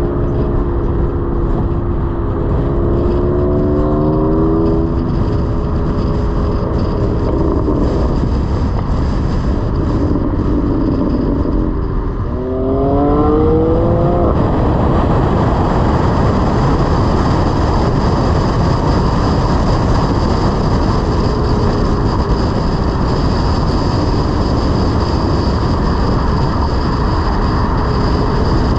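Car with a loud custom exhaust revving: the engine pitch rises twice, about three seconds in and again around twelve seconds. A steady loud rumble of engine and road noise follows.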